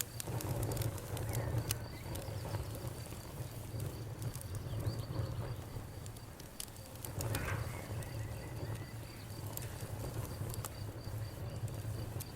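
Campfire burning with sharp, irregular crackles and pops over a low, steady rumble. A faint high, evenly pulsing chirp runs in the background.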